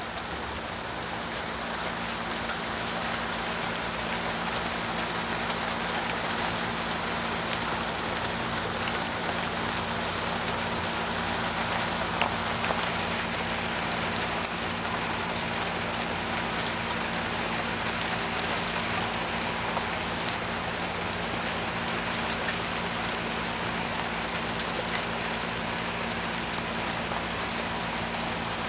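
Heavy rain pouring steadily in a thunderstorm. It swells a little over the first few seconds, then holds even.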